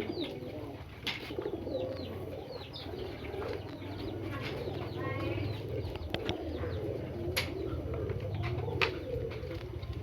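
Many domestic pigeons cooing together in a continuous murmur, with short high chirps from other birds over it and a few sharp clicks.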